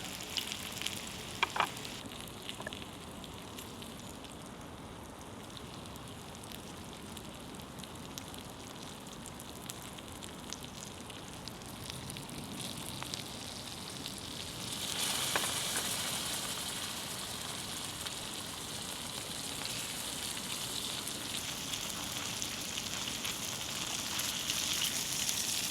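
Food frying in butter in a pan over a fire: a steady sizzle that grows louder and brighter a little past halfway, with a couple of light clicks near the start.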